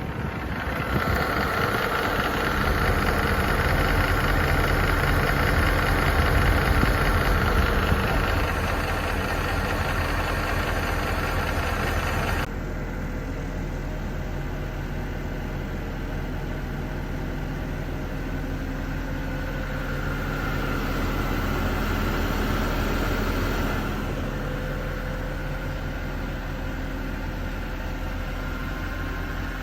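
Mercedes-AMG M156 6.2-litre V8 idling with a ticking from its camshaft adjusters. About twelve seconds in there is an abrupt cut to the same engine idling more quietly, with its camshaft adjusters replaced.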